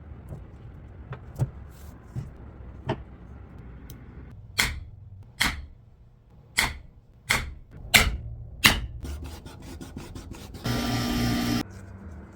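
Leatherworking hand tools at a bench: a series of sharp knocks, most of them coming about one every three-quarters of a second in the middle. Near the end comes a buzz, about a second long, like a small motor running briefly.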